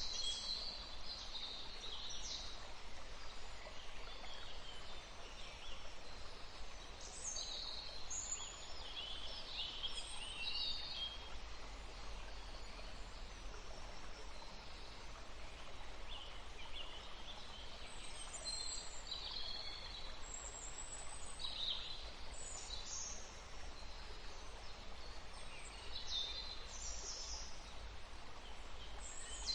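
Several small songbirds chirping and trilling in short bursts, over a steady background hiss of outdoor ambience.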